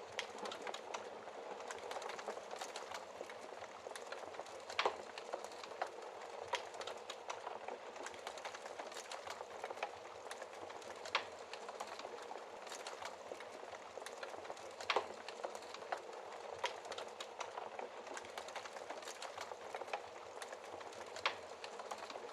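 Wood fire burning in a fireplace: a steady fine crackle with frequent small snaps and a few louder pops.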